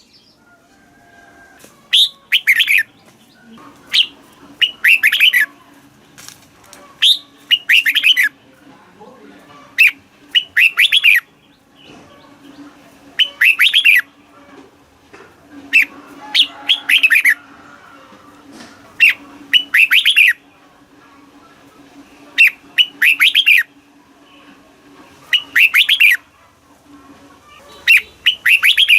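Red-whiskered bulbul singing: short phrases of quick warbling notes, repeated every second or two, over a faint steady low hum.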